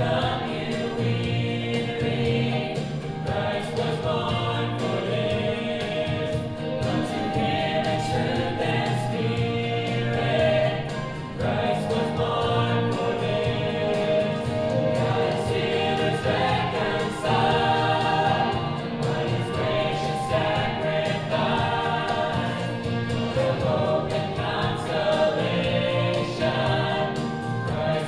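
A church choir singing with instrumental accompaniment.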